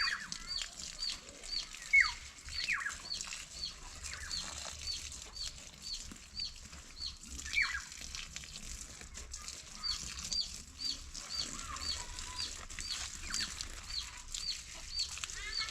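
Chickens calling, with a short high chirp repeated about two to three times a second throughout and now and then a louder falling call.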